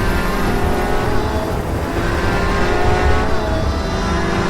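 Fast car's engine running at high revs, its pitch slowly climbing and dropping back twice, as at upshifts during hard acceleration.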